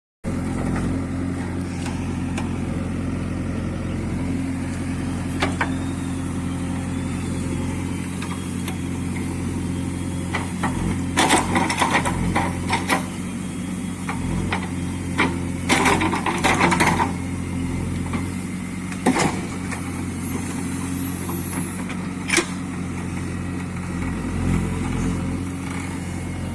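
Heavy diesel engine running steadily. Short bursts of rapid clattering knocks come about eleven and sixteen seconds in, with single sharp knocks here and there.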